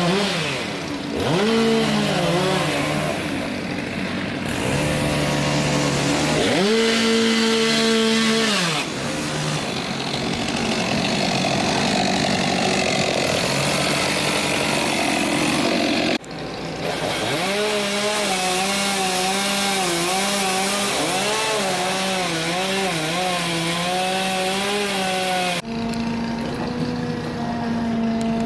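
Two-stroke chainsaw cutting branches, revving up to full throttle and dropping back to idle again and again, its pitch rising and falling with each cut.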